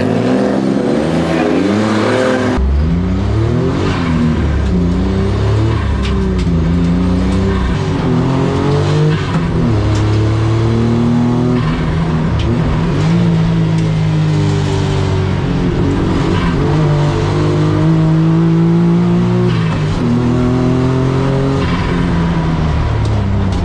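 Small kei car engine driven hard around a circuit, revving up through each gear and dropping back at the shifts and corners, over and over. The character of the sound changes abruptly about two and a half seconds in.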